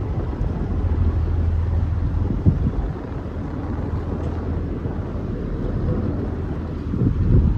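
Boat engine running with a low, steady hum, with wind buffeting the microphone; two louder gusts, one about two and a half seconds in and one near the end.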